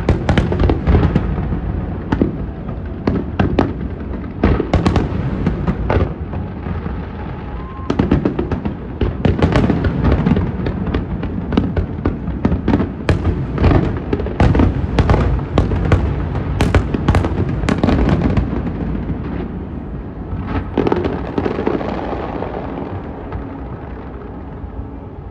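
Fireworks display: rapid bangs and crackling over a continuous low rumble. The bursts come thickest in the middle, then thin out near the end.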